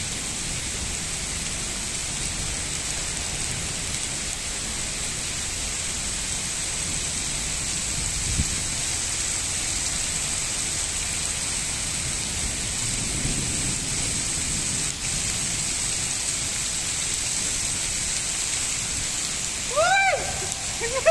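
Heavy rain pouring steadily onto paving and standing water. A short low thump comes about eight seconds in, and a brief pitched sound near the end.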